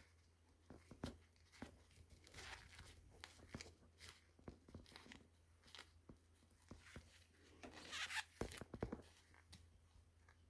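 Faint handling noises: scattered light clicks and short scratchy rasps, the longest about eight seconds in, over a faint steady low hum.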